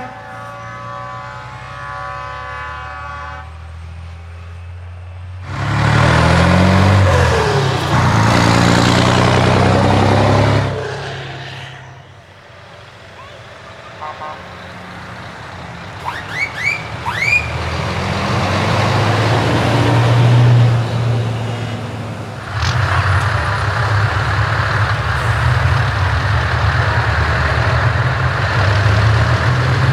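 Heavy trucks with open exhaust pipes driving past: a many-toned air horn sounds and fades in the first few seconds, then a loud swell of engine and exhaust sound, a few short rising toots, and a deep engine drone that builds and stays loud through the second half.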